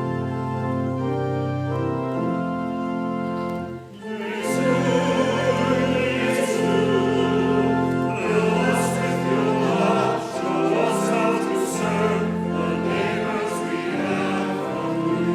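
Organ playing held chords, then about four seconds in a choir of voices begins singing with the organ accompanying.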